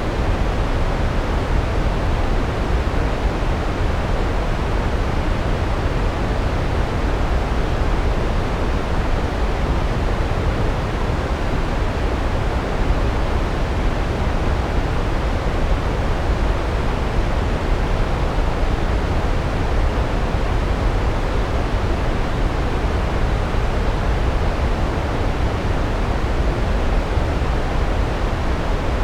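Large waterfall's steady roar: a deep, unbroken rush of falling water, strongest in the low end.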